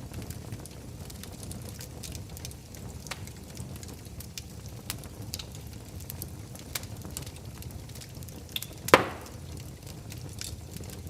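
Wood fire in a fireplace crackling over a steady low rumble, with scattered sharp snaps and one much louder pop near the end.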